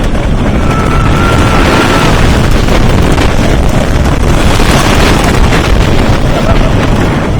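Wooden roller coaster train running at speed, a dense rumble of the train on the wooden track mixed with wind blasting the microphone. A high held note sounds about half a second in and lasts for about a second and a half.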